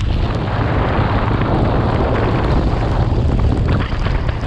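Steady, loud rushing noise with a heavy low rumble: wind buffeting the microphone.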